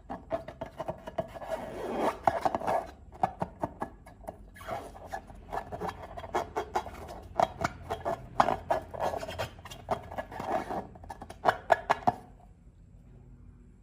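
Slime being squished and worked by hand: dense, irregular sticky crackling and rubbing that stops suddenly about twelve seconds in.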